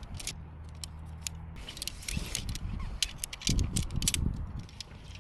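Camping gear being handled, with a run of sharp clicks and rattles and a few heavier knocks about three and a half to four seconds in. A low hum runs for about a second near the start.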